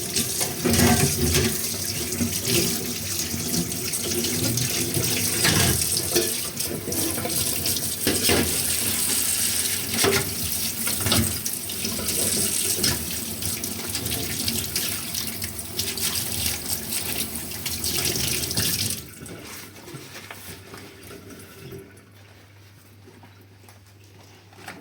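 Tap water running into a kitchen sink while dishes are rinsed, with scattered clinks and knocks of dishes. The running water cuts off abruptly late on, leaving only faint handling sounds.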